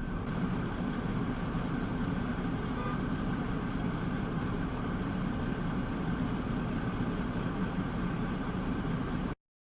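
Steady vehicle engine and road noise with no distinct knocks or horns, cutting off abruptly near the end.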